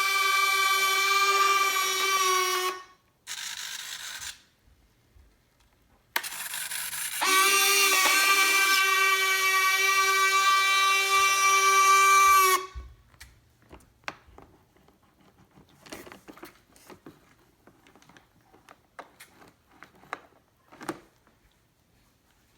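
Electric retractable landing gear on an E-flite Blue Angels F/A-18 model whining as the gear cycles. A steady whine lasts about three seconds, then comes a brief break. A second, longer whine runs to about twelve seconds in and stops abruptly. After that there are only faint scattered clicks.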